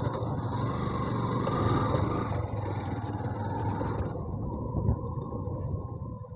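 Yamaha FZ V2 motorcycle's single-cylinder engine running under way, with road and wind noise over it. The hiss drops away about four seconds in.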